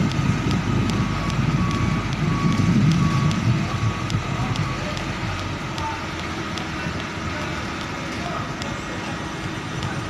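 Heavy truck engine running with a deep rumble that is loudest over the first few seconds, then settles. A short beep repeats several times during the first three seconds.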